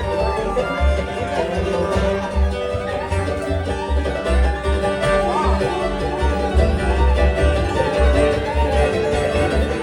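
Live bluegrass band playing at a fast driving tempo, the five-string banjo's rapid picking up front over guitar, fiddle and a pulsing bass line.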